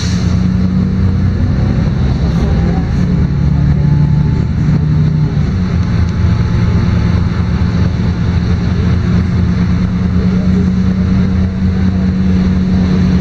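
LiAZ-5292 city bus's diesel engine running while under way, heard from inside the cabin. Its note shifts up in pitch about five seconds in, then holds steady.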